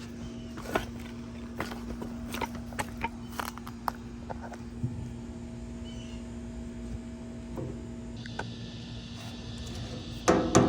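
Scattered light clicks and handling knocks over a steady low hum. Near the end a rapid run of loud hammer strikes begins, several a second, each with a ringing tone.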